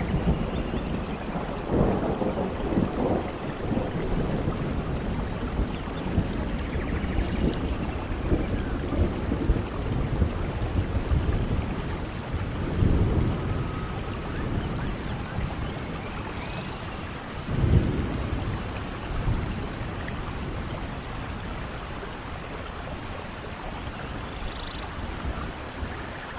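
Steady rain with rolling thunder, the rumbles swelling loudest about two, thirteen and eighteen seconds in.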